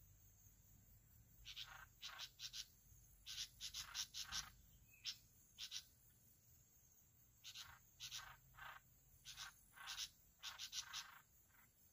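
Sooty-headed bulbul calling: two runs of short, quick notes, with a pause of about a second and a half between them.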